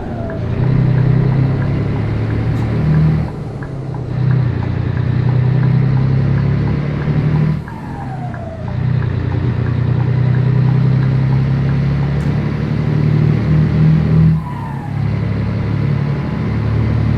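Scania 113 truck's six-cylinder diesel engine running steadily under load while driving. Its note dips briefly three times, about 3, 7.5 and 14.5 seconds in, each time with a short falling whistle.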